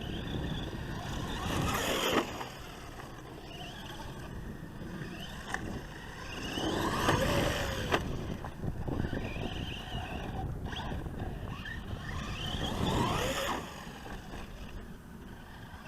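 Traxxas Slash 4x4 VXL radio-controlled truck being driven, its brushless electric motor whining up and down in pitch, with three louder bursts of acceleration and a couple of sharp knocks.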